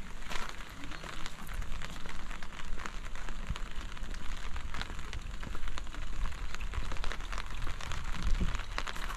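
Steady rain falling, with many separate drops ticking sharply close to the microphone and a low rumble underneath.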